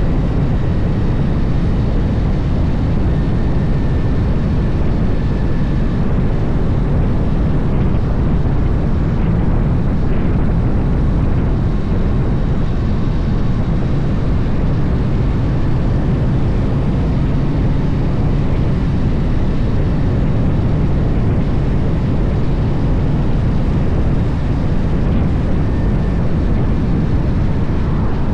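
Harley-Davidson motorcycle running steadily at road speed, a constant low rumble with no breaks.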